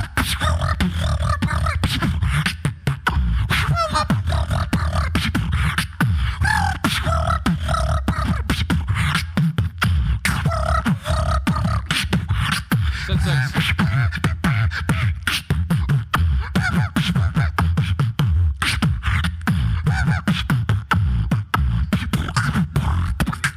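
Solo beatboxing: a steady deep bass with fast, dense percussive clicks and snares, and short pitched vocal sounds over it.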